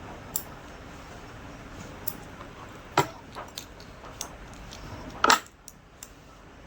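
Scattered metallic clicks and clinks from small metal parts and tools being handled, irregular, with two louder knocks about three seconds in and just after five seconds.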